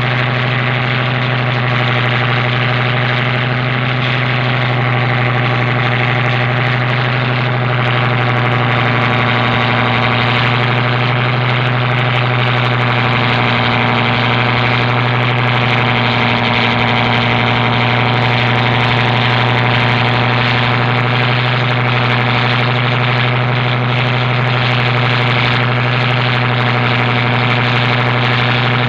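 Boat engine running steadily at constant speed, a low, even drone.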